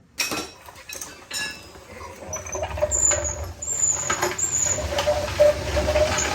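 Spare-tire hoist under the pickup bed being cranked to lower the spare: clicking, then repeated high squeaks with a low rumble, getting louder in the second half.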